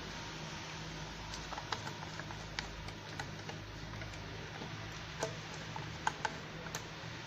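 Scattered light clicks and taps of kitchen utensils against a bowl and baking pan as semolina cake batter is poured and spread, over a steady low hum.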